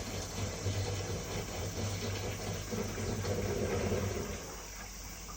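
Top-loading washing machine draining its dirty wash water: a steady low mechanical hum with water noise, which drops to a quieter level about four seconds in.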